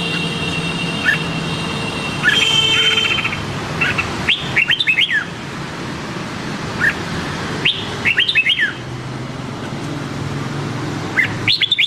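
A red-whiskered bulbul singing short, quick phrases of rising and falling whistled notes, three bursts about three to four seconds apart. A steady high whine and low hum sit under the first few seconds.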